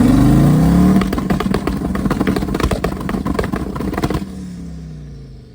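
Car engine revving: the pitch climbs, holds high with a dense crackling rattle for about three seconds, then falls away and fades near the end.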